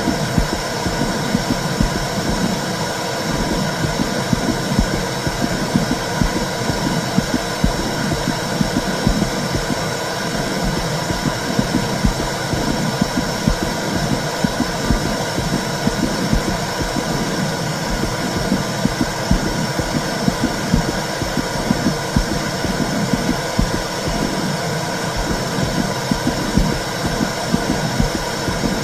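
Womb sound: a steady, muffled whooshing rumble with a pulsing beat underneath like a heartbeat, the kind played to soothe a baby to sleep.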